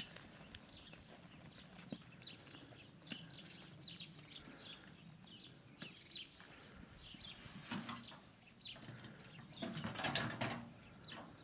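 Bird chirping faintly: short high notes repeated about twice a second. A louder patch of rustling noise comes near the end.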